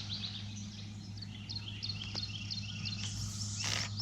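Songbirds chirping and singing, many short, quickly falling chirps in rapid series, over a steady low hum. About three seconds in come two brief rushes of noise.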